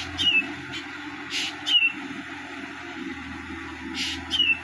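A bird calls three times, each call a short harsh rasp followed by a quick falling whistle. Under it runs the steady distant drone of a tractor pulling a rotary tiller through dry field.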